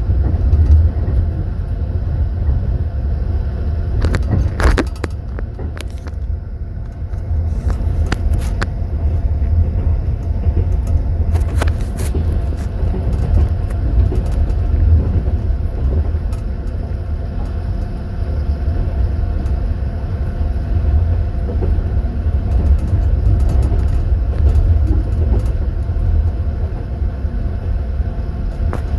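Passenger train running, heard inside a sleeper compartment: the wheels on the rails give a steady low rumble. A few brief metallic clinks come about four, eight and twelve seconds in, teaspoons knocking in tea glasses in their holders.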